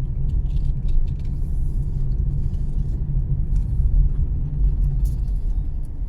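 Car driving along a road: a steady low rumble of engine and tyres, with scattered faint ticks and clicks.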